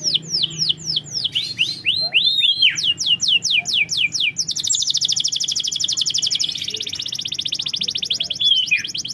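Domestic canary singing a fast song. It runs through a series of quick downward-sweeping whistled notes, then rolls into rapid even trills about halfway through, and switches back to sweeping notes near the end.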